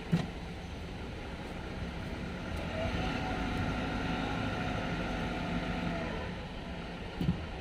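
A motor vehicle's engine running by, swelling from about two and a half seconds in and fading again near six seconds, over steady background noise. A single knock at the start.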